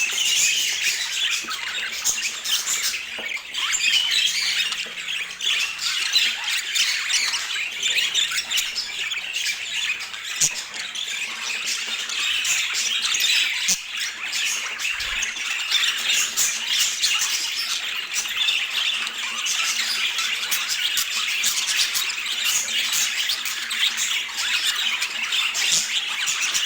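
A group of budgerigars chattering and squawking without pause, a dense mass of quick chirps and scratchy calls.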